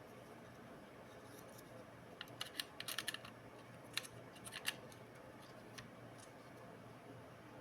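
A quick run of light clicks and taps of small hard parts being handled, starting about two seconds in and lasting a little over two seconds, over a faint steady hiss.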